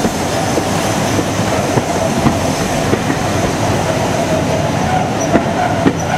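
Passenger coach rolling along the line: a steady rumble of wheels on rail with irregular clicks as the wheels cross rail joints, and a thin wavering squeal from the wheels throughout.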